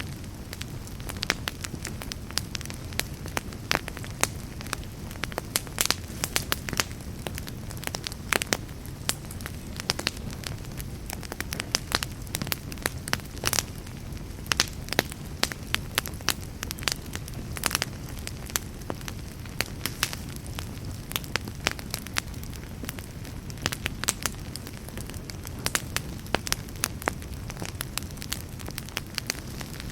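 Fireplace fire crackling steadily, with frequent sharp pops and snaps over a low, even rumble of flame.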